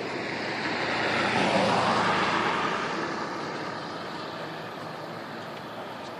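A vehicle passing by: a rushing noise that swells, peaks about two seconds in and fades away within a few seconds, over a steady outdoor background.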